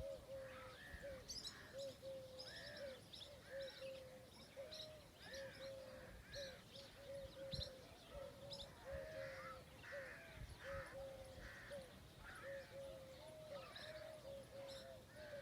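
Several birds calling at once, faint: a steady series of short, low arched calls about two to three a second, with higher chirps and trills over them.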